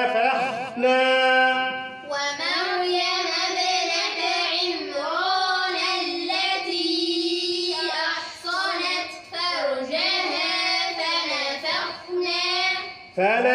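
A group of children chanting a Quran verse together, repeating it after a man's recitation, which ends about two seconds in.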